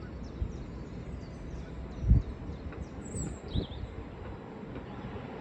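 Low rumble of a train approaching along the line, with a couple of low thumps, the loudest about two seconds in, and small birds chirping briefly in the middle.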